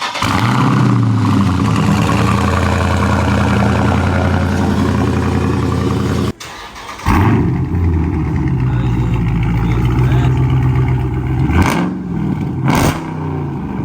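Dodge Scat Pack's 392 HEMI V8 on a straight-piped exhaust with mid-muffler and resonator delete, running loud. The sound drops out suddenly for about a second just past the middle, then picks up again, with two short sharp blips near the end.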